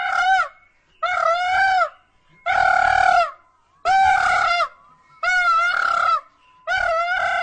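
A bird calling over and over, six calls each lasting just under a second, one about every second and a half, all at the same pitch.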